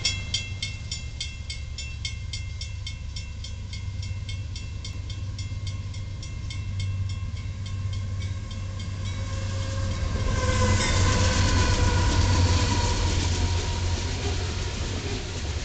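Grade-crossing bell ringing rapidly, about three strikes a second, as a loaded coal train nears. About ten seconds in it is swamped by Union Pacific diesel locomotives passing close, a loud low engine rumble with tones sliding slowly downward, then the rolling hopper cars on the rails.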